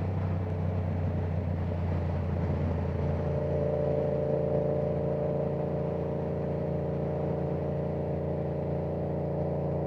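Yamaha R7's parallel-twin engine running at a steady cruise through an aftermarket exhaust, heard from inside the rider's helmet. The engine note shifts slightly about three seconds in, then holds steady.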